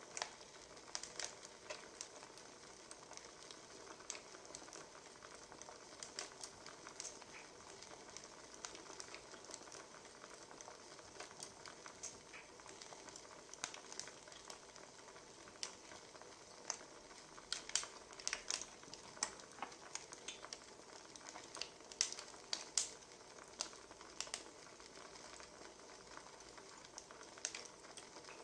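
Faint wood fire crackling: a low steady hiss with irregular sharp pops and snaps, coming thicker about two-thirds of the way in.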